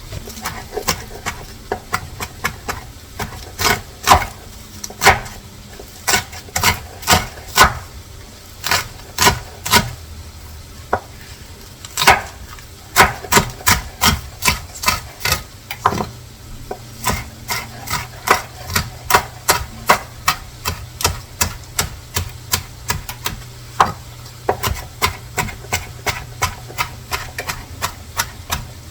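Kitchen knife chopping green onions and chives into tiny pieces on a cutting board: runs of quick, sharp knocks, about two to three a second, with short pauses between runs.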